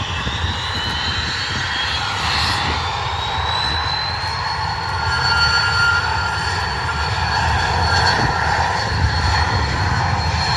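Embraer E190's twin General Electric CF34-10E turbofan engines at takeoff power: a high whine rises over the first few seconds and then holds steady, over a low rumble.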